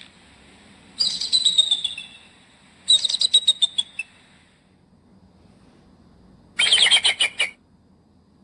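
Kite calling: three high, quavering whistled calls of about a second each, with pauses between, each a rapid series of notes that falls slightly in pitch.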